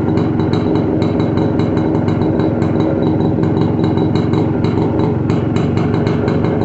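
Jawa Yezdi 250 B-type's single-cylinder two-stroke engine running steadily after a long lay-up, with an even, fast ticking on top of its exhaust note.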